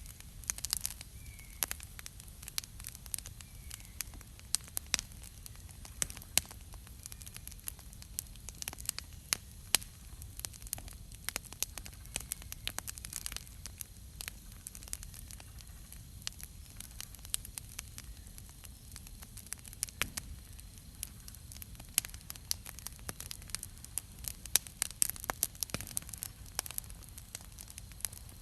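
Wood campfire burning, with sharp irregular crackles and pops over a low steady rumble of the flames.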